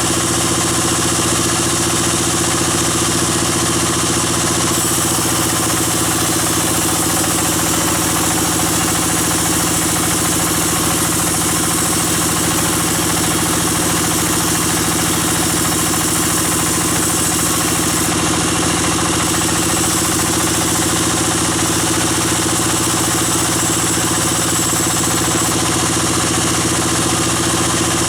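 Sawmill band saw and its drive engine running steadily, a constant mechanical hum with a high hiss over it.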